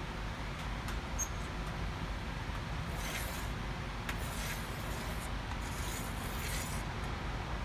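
Steady low background hum, with faint scratching of steel divider points on sheet metal about three seconds in and again near the end.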